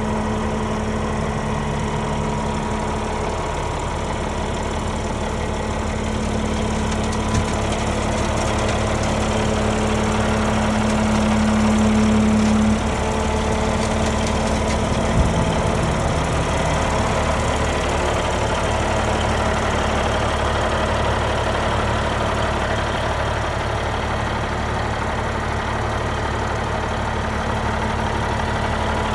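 Caterpillar 3406B inline-six diesel in a 1991 International Eagle dump truck idling steadily. A humming tone in the drone swells and cuts off about 13 seconds in, with a couple of brief knocks.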